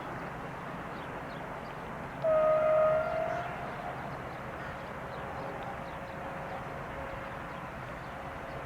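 Diesel locomotive horn, class DA, sounding one short blast under a second long, slightly rising in pitch, about two seconds in, over steady background noise.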